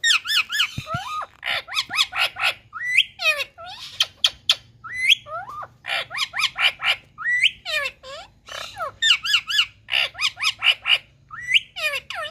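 Indian ringneck parrot (rose-ringed parakeet) calling: quick runs of short, harsh squawks, several a second, broken by sharp rising and falling whistled slurs.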